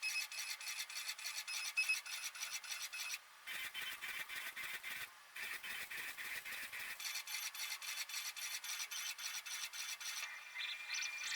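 Bambu Lab A1 3D printer's motors running in a fast, even ticking buzz, about ten ticks a second, with two short pauses; near the end the ticking stops and a few short stepped tones follow.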